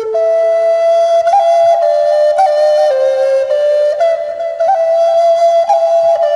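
Native American flute playing a slow melody of held notes that step up and down, with quick grace-note flicks between some of the notes.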